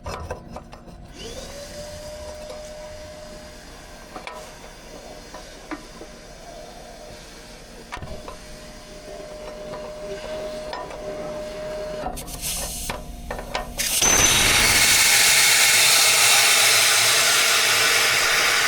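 A power tool's motor runs twice with a steady whine, a few seconds each time, with a few clicks of tools on metal in between. About fourteen seconds in, a much louder steady rushing hiss starts.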